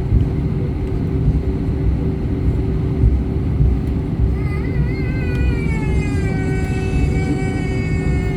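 Airbus A319 cabin noise: a steady rumble with a low hum. About halfway through a whine joins in, wavering at first, then gliding down in pitch and holding steady.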